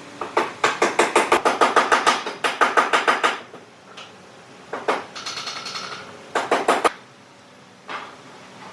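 A fast run of sharp knocks, about eight a second, lasting about three seconds. A short higher ringing tone follows, then a brief second run of knocks and one last knock near the end.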